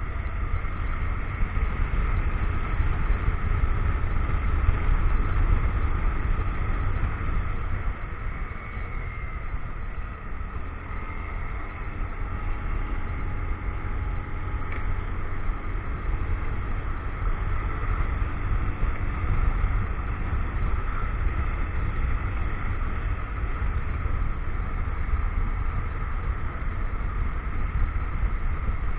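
Motorcycle on the move: steady engine drone mixed with a deep wind rumble on the action camera's microphone.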